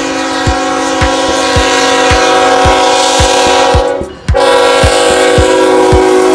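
Locomotive air horn sounding a long held chord that breaks off briefly about four seconds in and then resumes, over background music with a steady beat of about two kicks a second.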